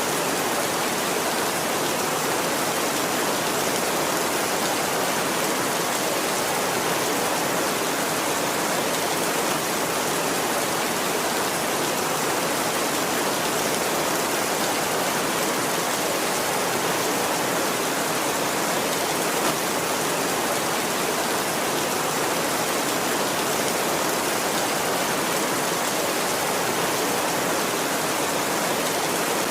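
Steady heavy rain, an even hiss of falling water with no thunder.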